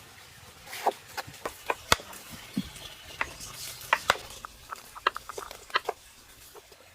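A series of irregular light clicks and taps, a dozen or more, some close together and some a second apart.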